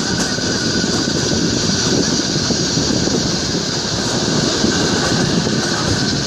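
Kalka–Shimla Railway narrow-gauge toy train running, a steady, even rumble of wheels and carriages on the track.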